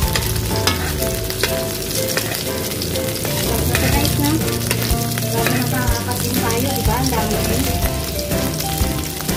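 Shrimp-paste omelette (tortang alamang) frying in hot oil in a pan: a steady sizzle with many small crackling pops.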